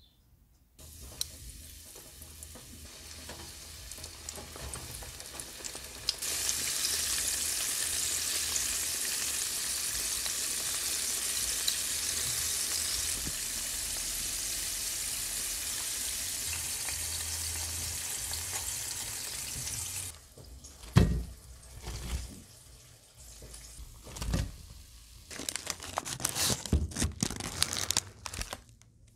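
Flour-coated cauliflower pieces deep-frying in hot oil: a steady sizzle that grows louder about six seconds in and stops after about twenty seconds. Then come irregular short crinkles and knocks.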